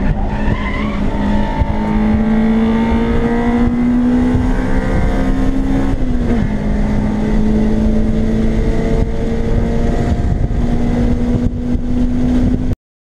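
Acura RSX's four-cylinder engine heard from inside the cabin under acceleration, its pitch rising slowly. The pitch drops at an upshift about six seconds in, then climbs again over road and wind noise. The sound cuts off suddenly near the end.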